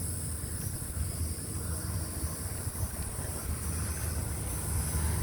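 Wind rumbling on the microphone, with a steady high hiss above it.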